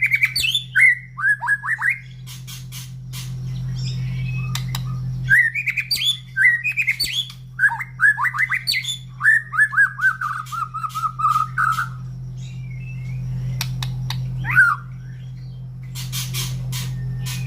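White-rumped shama (murai batu) singing in bursts of whistled phrases with sharp up-and-down notes, one phrase ending in a fast run of repeated notes. Sharp clicks fall between the phrases, over a steady low hum.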